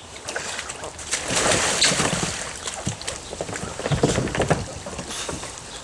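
Water splashing and sloshing around a kayak as it is rocked and tipped, in irregular bursts with sharp slaps, loudest about two seconds and four seconds in.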